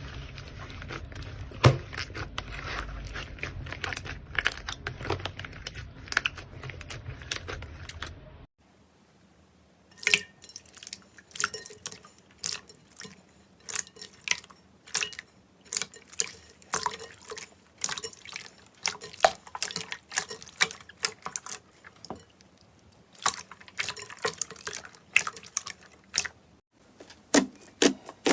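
Slime being squeezed and poked by hand, making sticky, wet crackles and pops. For the first eight seconds or so the crackling is dense over a low rumble; after a cut, separate sharp pops come about twice a second.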